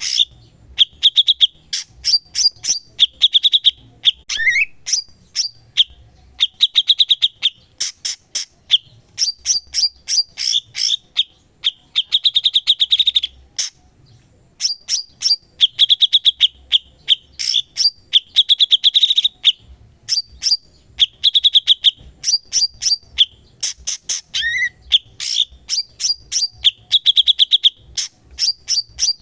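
Cucak cungkok songbird in full song: fast trills of sharp, high chips, repeated phrase after phrase with short pauses between them, and a couple of brief sliding notes.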